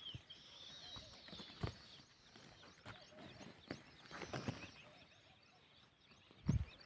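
Small birds giving high, thin chirps, many short falling calls in quick succession, over scattered sharp knocks, with a louder thump near the end.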